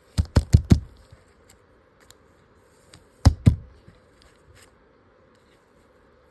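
Sharp knocks of a handmade paper camera module being hit against a hard surface: four in quick succession right at the start, then two more about three seconds in.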